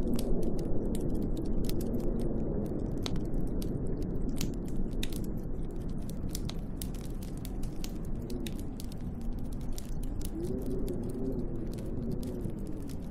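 Wood fire crackling with irregular sharp pops and snaps over a steady low rush of storm wind. From about eight seconds in, the wind howls with a wavering tone that rises and falls.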